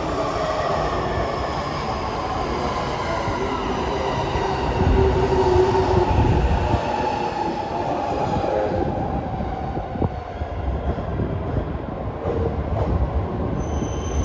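Electric commuter train running along the platform, its motor whine falling slowly in pitch as it slows, over the low rumble of wheels on rails.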